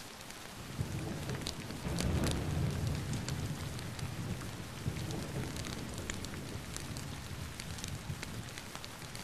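Steady rain with a low thunder rumble that swells about a second in, peaks around two seconds in and slowly dies away, with scattered sharp ticks.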